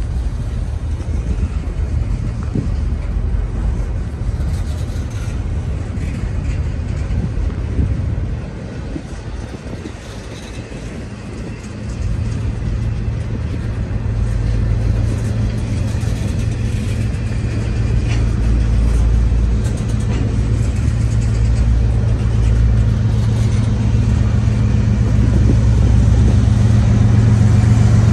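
Freight train rolling past as it picks up speed: low rumble of intermodal cars on the rails. Then, from about halfway, the steady drone of a GE Evolution-series diesel locomotive working as a mid-train distributed power unit, growing louder as it nears.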